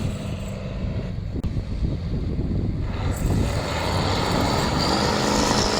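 Old concrete truck's diesel engine running steadily at a loud, even pitch; its higher hiss thins out from about half a second to three seconds in, then comes back.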